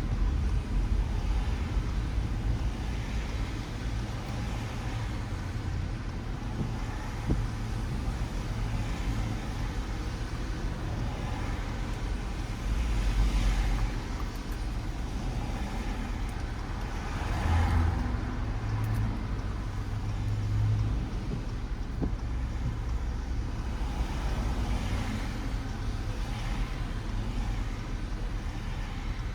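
Car driving on wet city roads in rain: a steady low rumble of engine and tyres, with the hiss of tyres on wet asphalt swelling several times as other vehicles pass.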